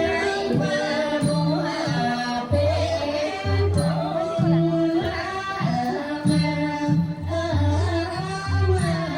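Cambodian traditional dance music: a wavering, ornamented melody over a repeating pattern of low drum strokes.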